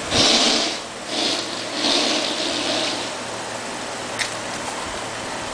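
Car driving past, its tyres hissing in three rushes over the first three seconds, then only a faint steady hum.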